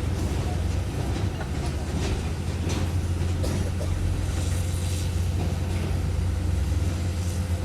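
Heavy earthmoving machine's diesel engine running steadily, with a few sharp metallic clanks scattered through it.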